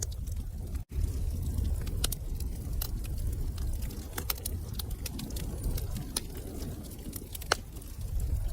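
Wood fire burning in a fireplace: a low, steady rumble of flames with scattered sharp crackles and pops, one louder pop near the end. The sound cuts out for an instant about a second in.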